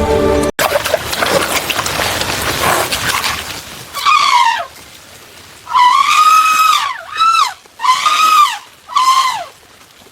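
Baby elephant squealing in distress: five cries that each rise and fall in pitch, one of them noticeably longer, in the second half. Before them, a few seconds of steady rain-like hiss.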